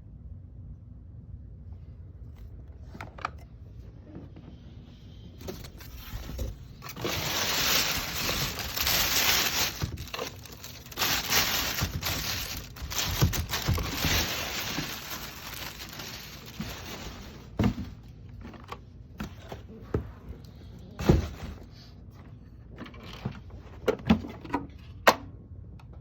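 Rustling and scraping in uneven spells as the vacuum and its packaging are handled, followed by a scatter of sharp knocks and clicks.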